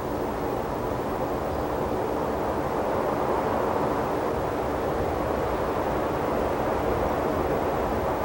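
Steady rushing wind in open desert, with low buffeting on the binaural microphones, swelling a little about three seconds in.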